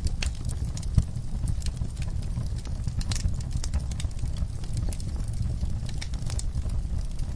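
Wood fire burning in a fireplace: logs crackling with scattered sharp pops over a steady low rumble of flames, with one louder pop about a second in.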